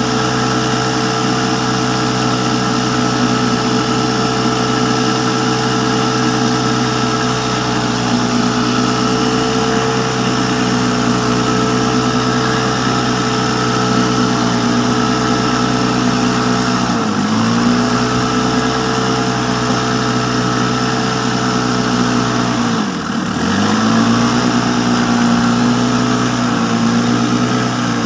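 An engine running steadily at a constant speed. Twice in the second half its speed sags briefly and picks back up.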